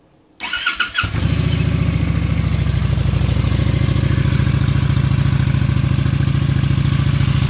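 2015 Honda Shadow Phantom's 745 cc V-twin on its stock exhaust being started: a brief whine of the electric starter cranking, the engine catching about a second in, then settling into a steady, loud idle.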